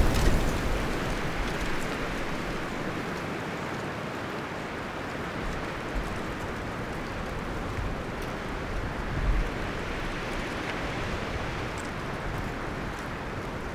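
Wind rustling the leaves and branches of a forest, a gust easing off over the first couple of seconds into a steady rushing, with a brief low swell of wind now and then.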